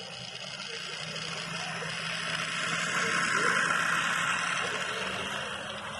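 HO-scale model train running on the layout: a steady low motor hum under a rushing wheel-and-track noise that swells to a peak about halfway through and then eases off, as if passing close by.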